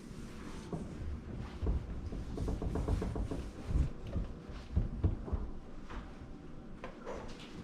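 A microwave being wiped down with a rag: rubbing and irregular knocks and thumps against the casing and door, with a brief squeak about two and a half seconds in.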